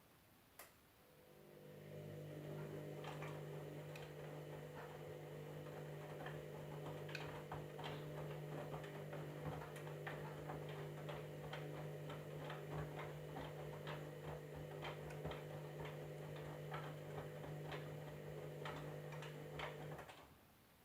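Candy washing machine running: a single click, then a steady motor hum that builds over about a second and carries many irregular light ticks. It stops abruptly after about nineteen seconds.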